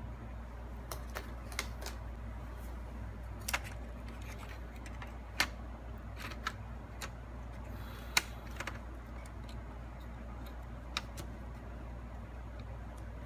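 Scattered light clicks and taps of hard plastic laptop parts and small tools being handled, about a dozen at uneven intervals, the sharpest a little past five seconds and around eight seconds, over a steady low hum.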